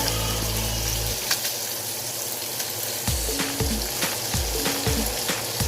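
Chicken skins and garlic frying in butter in a pan, a steady sizzle as the skins render their fat into chicken oil. Background music with a bass line plays along.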